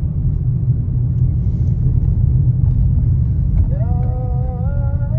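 Steady low road and engine rumble of a car driving through city streets. Near the end a long pitched tone with overtones begins, sliding up and then holding steady.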